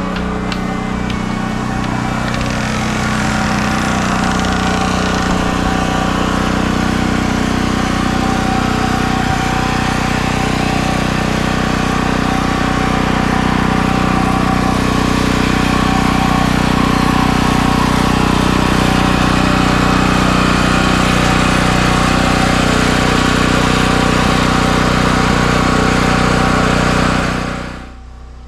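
A small engine running steadily, growing a little louder over the first few seconds, then stopping shortly before the end.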